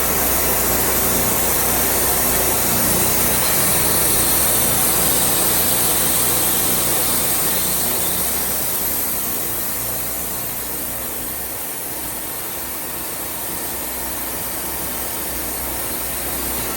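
Wood-Mizer band sawmill running steadily, its engine humming under a high, hissing band-saw noise, easing off a little in loudness about halfway through.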